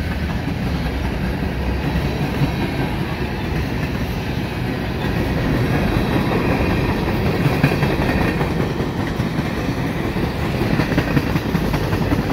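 Freight cars of a quick-moving mixed freight train rolling past: a steady, loud rumble of steel wheels on the rails.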